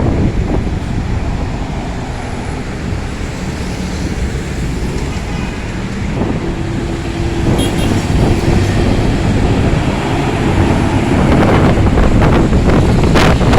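Moving road vehicle: a steady low rumble of engine and road noise with wind on the microphone, a steady hum joining about six seconds in.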